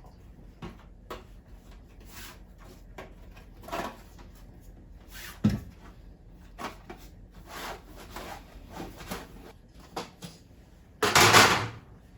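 Household cleaning and handling sounds at a refrigerator: scattered light knocks and rubbing, then one louder rush of noise lasting under a second near the end.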